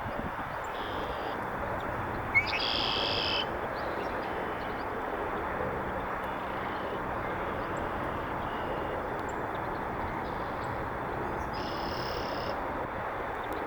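Male red-winged blackbird singing its territorial song twice, about two seconds in and again near the end: each time a short note followed by a buzzy trill. Fainter calls come in between, over a steady background hiss.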